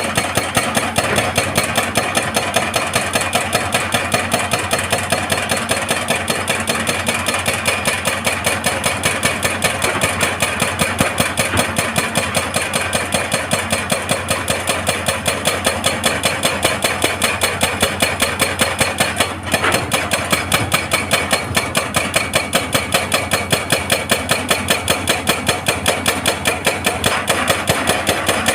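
Hitachi excavator's hydraulic breaker hammering on rock in rapid, even blows, with a short break about nineteen seconds in, over the excavator's engine.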